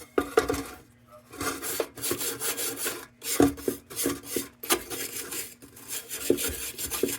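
Irregular scraping strokes on a painted tin lantern's parts, with a few light knocks as metal is handled.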